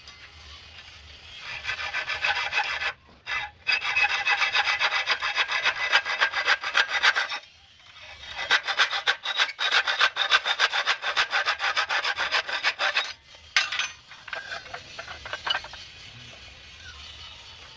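A saw cutting with fast, even rasping strokes in three runs, broken by brief pauses, then a few lighter strokes as it slows near the end.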